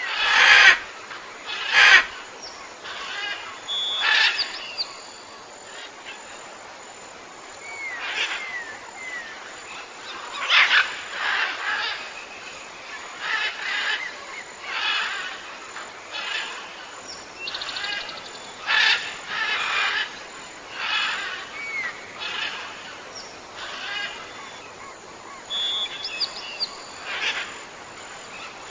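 Birds calling outdoors: a run of short, harsh calls repeated every second or two, with small thin chirps in between.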